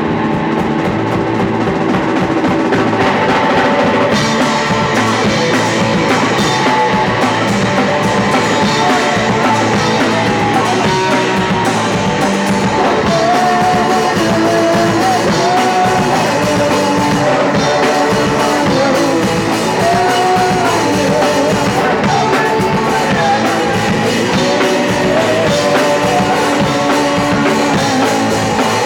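Live punk rock band playing a loud song on electric guitar, with the drum kit and cymbals coming in about four seconds in.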